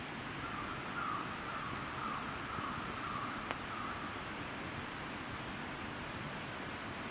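Steady hissing outdoor background noise. A faint warbling call wavers over it for about three seconds in the first half, and a few light ticks sound.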